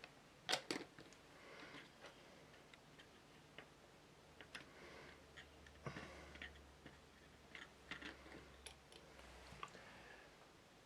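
Light clicks and taps of plastic model kit parts being handled and set down on a table. A pair of sharper clicks about half a second in, then scattered soft ticks.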